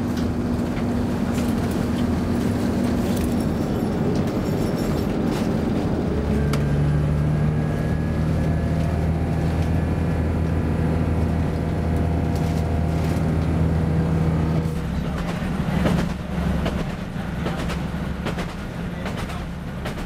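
Diesel train heard from inside the passenger carriage as it pulls away from a station. Its engine note strengthens and holds steady under power from about six seconds in, then eases off about fifteen seconds in, after which a few clicks of the wheels over the rails come through.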